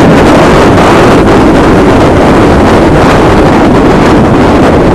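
Loud, steady wind rush buffeting a microphone fitted inside a motorcycle helmet while riding.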